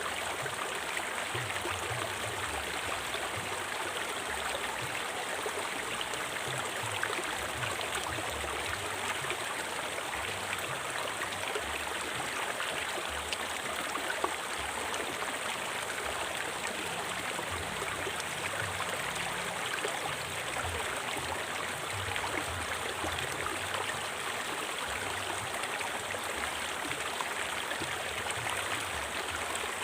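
A river flowing: a steady rush of running water, with many small splashes and gurgles in it.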